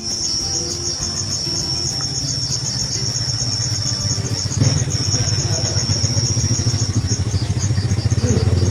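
An insect trilling in a fast, even pulse over a low rumble that grows louder about halfway through.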